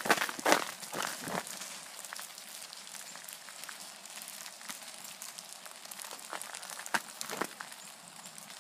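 A few crunches on ice in the first second and a half, then a steady faint patter of meltwater and bits of ice dripping from ice-coated trees, with two sharp ticks near the end.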